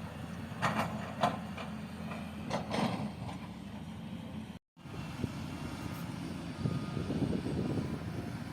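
A heavy construction machine's engine running steadily, with several sharp metallic clanks in the first three seconds. The sound cuts out for an instant about halfway through, then the engine rumble carries on.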